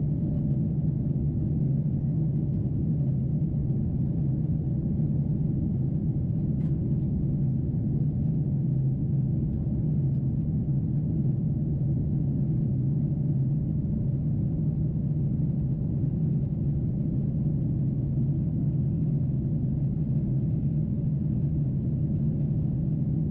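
Steady cabin noise inside a Boeing 747-8 in flight: a constant low drone of engines and airflow, with no change in pitch or level.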